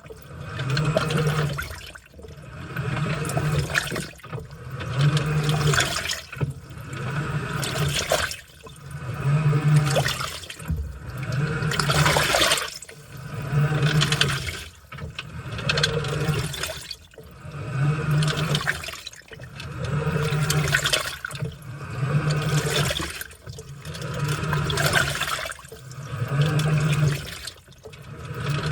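Washing machine in its wash cycle, the motor turning the load back and forth through the water: each stroke brings a low motor hum and sloshing, swelling and fading about every two seconds.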